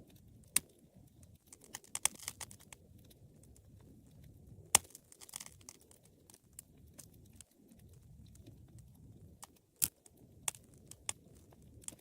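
Wood fire burning with a low steady rumble of flame and irregular sharp crackles and pops, a quick cluster of crackles about two seconds in and loud single pops about halfway and again near the end.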